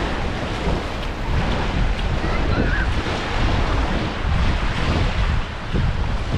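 Wind buffeting the microphone over the steady wash of waves on the shore.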